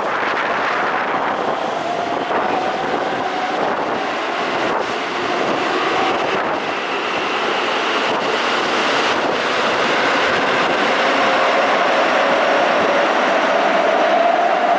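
Keisei 3400 series electric train running through the station, a steady rumble with a faint drawn-out squeal or whine that drifts slowly in pitch, growing a little louder toward the end.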